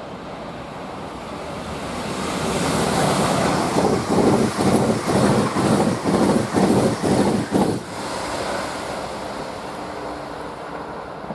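A Class 350 Desiro electric multiple unit passing close at speed: wheel-on-rail and air noise swells over the first few seconds, pulses rhythmically for about four seconds as the coaches and bogies go by, then drops to a lower steady rumble.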